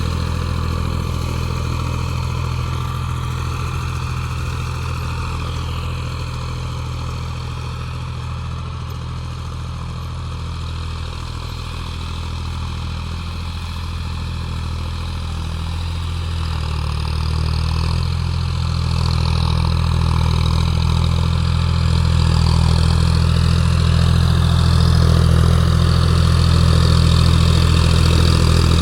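Tractor engine running steadily with an even low drone, growing louder over the second half.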